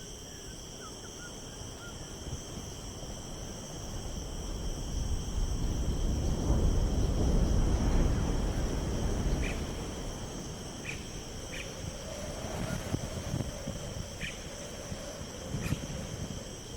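Steady chorus of crickets or similar insects, a high continuous trill. About a third of the way in, a low rushing noise swells up, peaks and fades, and a few short high chirps sound later on.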